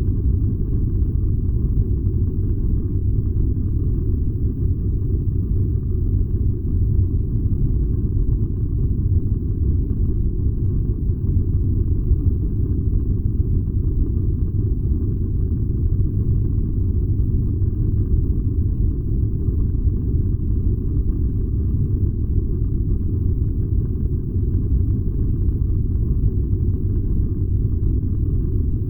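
Furnace burning with a steady, unbroken low rumble, its sound lying almost entirely in the deep bass.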